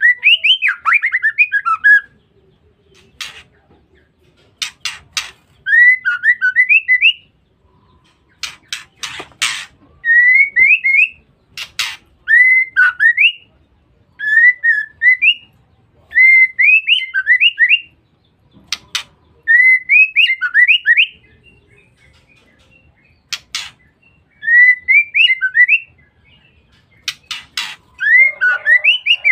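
Female white-rumped shama calling in repeated short phrases of quick rising twittering notes (ngeriwik), each about a second long and a few seconds apart. Sharp clicking notes fall between the phrases.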